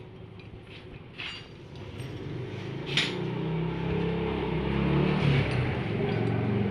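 A motor-vehicle engine running, growing louder about two seconds in, with a couple of sharp metallic clicks.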